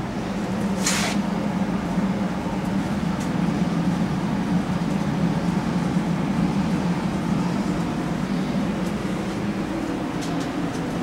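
AMC 360 V8 engine running steadily, with a brief hiss about a second in.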